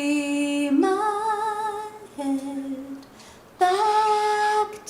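A woman singing a slow song unaccompanied, holding long, steady notes with short breaths between them.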